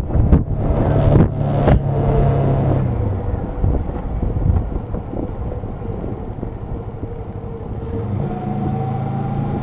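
Motorcycle engine and road rumble recorded from the bike: the engine note drops about three seconds in as the bike slows, stays low, then rises again near the end as it picks up speed.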